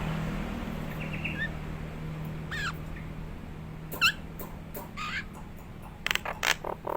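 Nias hill myna calling: single loud whistled notes a second or so apart, then a quick run of sharp notes near the end.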